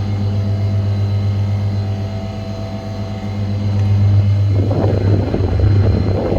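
Commercial refrigeration condensing unit running with a steady low hum. About four and a half seconds in, a rougher rushing noise joins for a couple of seconds.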